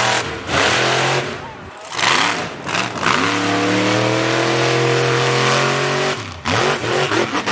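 Monster truck engine revving hard in short blips, then held at high revs for about three seconds before dropping off suddenly, followed by more quick revs.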